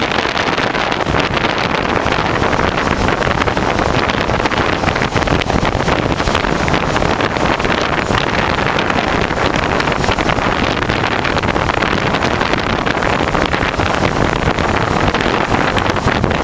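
Train running along the line: a steady loud rumble and dense rattle, with wind buffeting the microphone.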